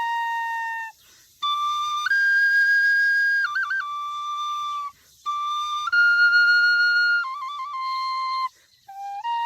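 Solo flute playing a slow melody of long held notes in short phrases, broken by three brief pauses for breath. Some notes are ornamented with quick trilled flutters.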